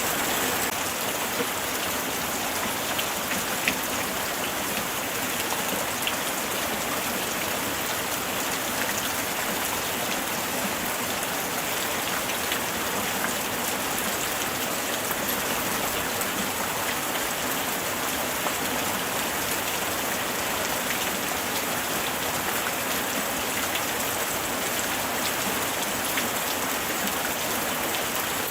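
Steady light rain falling, a constant hiss with many small drop patters on surfaces.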